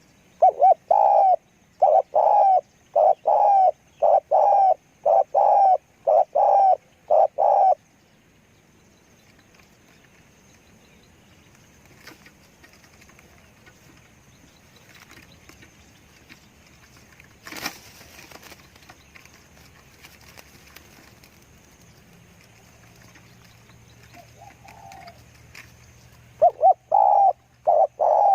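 Spotted dove cooing in a steady series of short low coos, about one every half second, for the first eight seconds. Then there is a long lull with faint background hiss and a single sharp knock around the middle, and the cooing starts again near the end.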